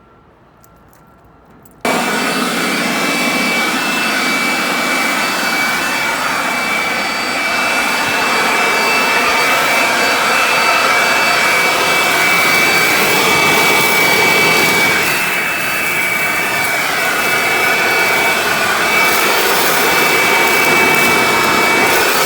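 Loud, steady rush of air from a motor-driven machine, with a high whine over it, starting abruptly about two seconds in.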